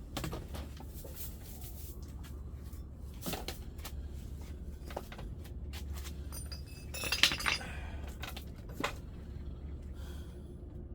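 Scattered clinks and knocks of hard objects being handled, with the loudest cluster about seven seconds in, over a steady low hum.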